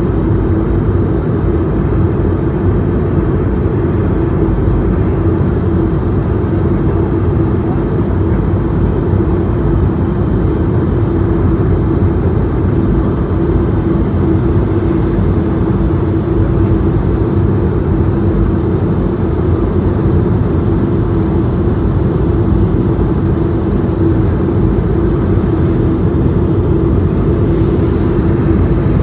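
Steady cabin noise inside an Airbus A220-100 in flight: the constant rush of airflow over the fuselage and the drone of its Pratt & Whitney PW1500G geared turbofans, with a steady hum running through it. This is the aircraft on descent toward landing.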